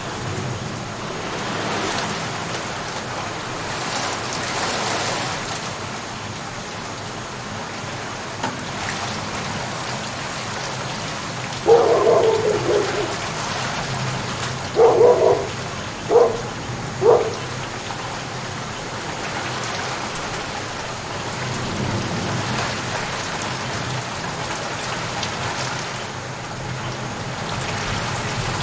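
Steady rain falling. Near the middle, a few loud short calls cut through it: one longer call, then three quick ones about a second apart.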